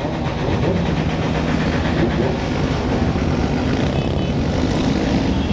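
A large crowd of motorcycles riding together, many engines running and revving at once in a loud, steady din.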